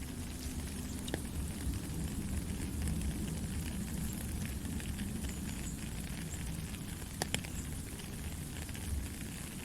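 Soft rain falling steadily: a dense, even hiss with a low rumble underneath. A few sharp, louder drops tap through it, one about a second in and two in quick succession later on.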